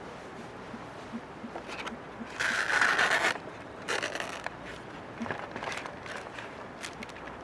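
Two short scraping sounds about two and four seconds in, among scattered small clicks and crackles.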